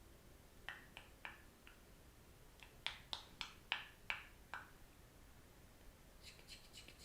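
Soft taps on bare foot soles: a few light taps, then a quicker run of about seven sharper taps, then faint higher scratchy ticks near the end.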